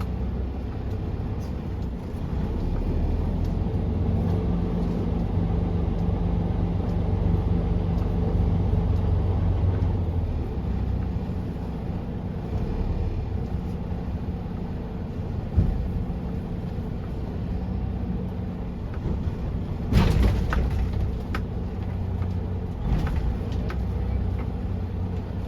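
Semi truck's diesel engine running, its pitch and level rising for several seconds while the truck moves under load. Two sharp clunks come about 15 and 20 seconds in, with lighter knocks after.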